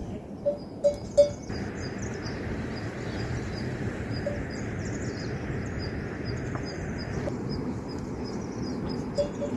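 Small livestock bells clinking now and then as the animals move, a few times near the start and again near the end, over a steady outdoor background. A steady hiss comes in about a second and a half in and stops about seven seconds in.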